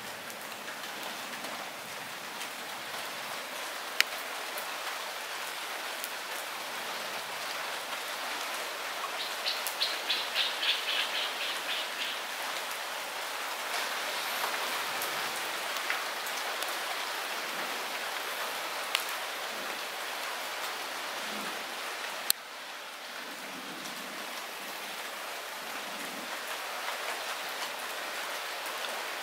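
Light rain falling steadily, an even hiss, with a few sharp single drops tapping close by. A short, rapid, high trill is heard about ten seconds in.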